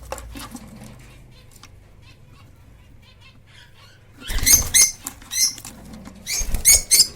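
African lovebirds giving two loud bursts of short, shrill chirps, about four seconds in and again near the end, with fluttering of wings.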